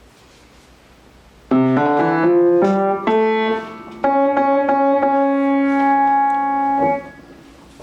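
A short piano-like keyboard phrase: a quick run of rising notes, then a chord held for about three seconds before it stops.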